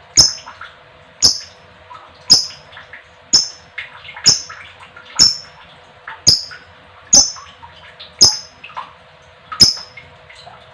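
A lovebird giving sharp, high single calls about once a second, with fainter chattering between them.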